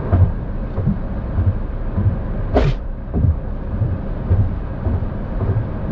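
Road and engine noise inside a moving car: a steady low rumble with regular low thumps about every half second, and a short hiss about two and a half seconds in.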